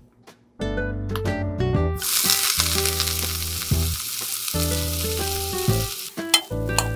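Starch-coated shredded dried pollack (hwangtae) sizzling in oil in a frying pan over medium heat. The sizzle starts abruptly about two seconds in as the shreds hit the pan. Near the end the fish is stirred and a few sharp clicks are heard.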